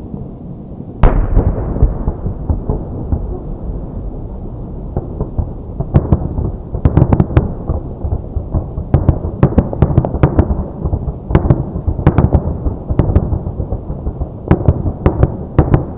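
Aerial fireworks shells bursting: one big boom about a second in with a long rolling echo, followed by a dense, rapid string of booms and crackles.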